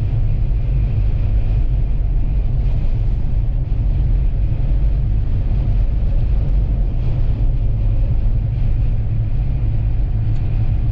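Steady low rumble of a vehicle driving on the highway, heard from inside the cabin: engine and road noise that holds constant, with no breaks or sudden sounds.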